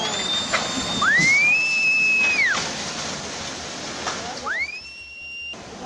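Rushing floodwater, with two long high whistles over it: each rises quickly, holds its pitch for about a second and a half, then falls. The first comes about a second in, the second near the end and cuts off suddenly.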